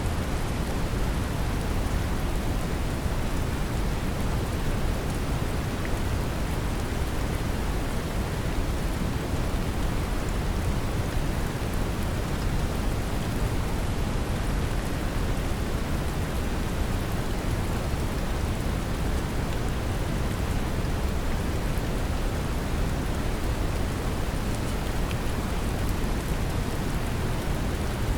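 Brown noise mixed with gentle rain: a steady, even rumbling hiss weighted toward the low end, with faint scattered raindrop ticks.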